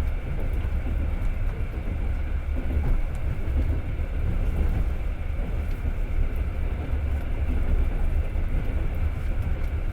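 Passenger train running along the track, heard from inside the carriage: a steady low rumble of wheels on the rails with an even running noise over it.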